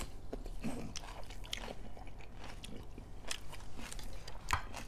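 Close-up chewing and biting of a meal of rice and pork curry: irregular wet mouth clicks and smacks, with a sharper click near the end.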